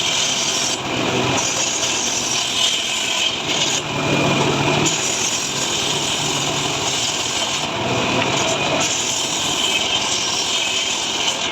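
Small petrol-engine saw cutting dry mahogany wood, running steadily, with its sound shifting several times as the load changes in the cut.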